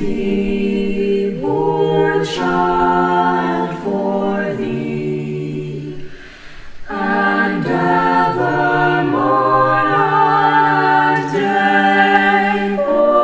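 High school choir singing a cappella in held, changing chords, with a short break about six seconds in before the voices come back in.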